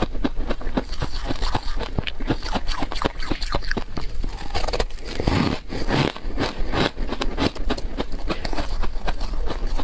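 Close-miked chewing of crispy tartary-buckwheat snowflake strips: rapid, irregular crackling crunches, with a louder, fuller crunch from a fresh bite about five seconds in.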